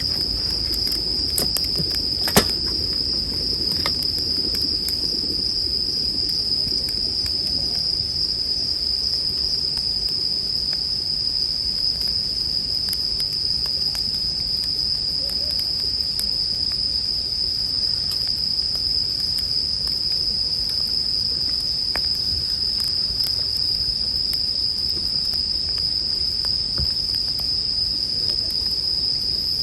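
Japanese bell crickets (suzumushi) singing in a steady, unbroken high chorus over a wood campfire that crackles with scattered small pops. There is one sharper pop about two seconds in.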